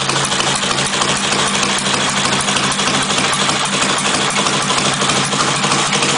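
Ural M72 side-valve flat-twin engine idling steadily, with a fast, even beat of firing pulses.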